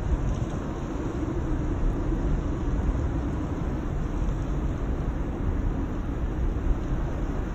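Steady low roar of thunderstorm wind, buffeting the microphone.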